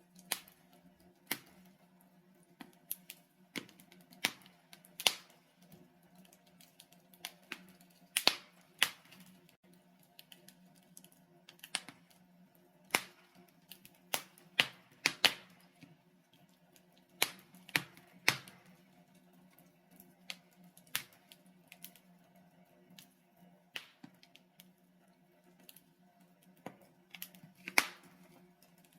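Burning logs in a fireplace crackling and popping: irregular sharp snaps, a few close together in places, over a faint steady low hum.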